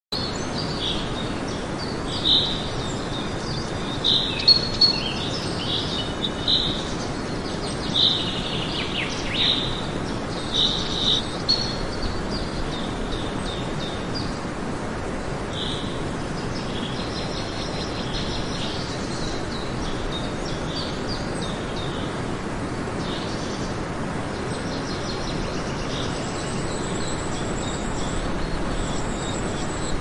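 Birds chirping in short high notes, many in the first twelve seconds and fainter and sparser after, over a steady background hiss.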